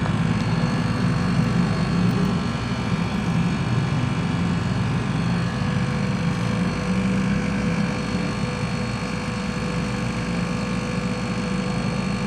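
A motor or machine running steadily: a continuous hum with a faint steady whine above it.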